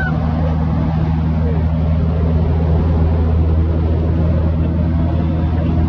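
Cessna light aircraft's piston engine and propeller droning steadily at a constant pitch.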